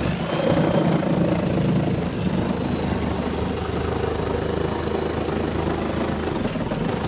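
Sawzall reciprocating saw running steadily as it cuts through the motorhome roof around the air-conditioning unit. It starts suddenly and is a little louder for the first couple of seconds.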